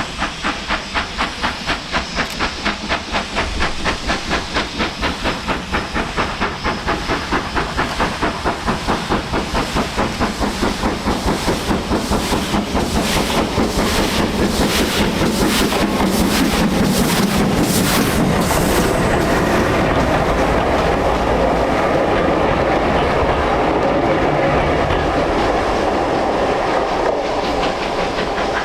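Steam train on the move, with a quick, even beat of about three a second and steam hissing. About halfway through, the beats blur into a steadier, fuller rush.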